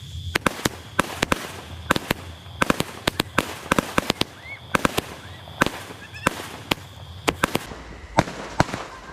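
A 48-shot fireworks cake firing: a rapid, uneven string of sharp bangs, two to four a second.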